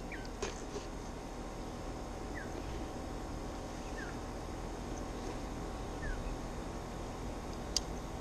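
Steady outdoor background with a small bird giving a short falling chirp every couple of seconds, four times, and a faint click or two from the cardboard box being handled.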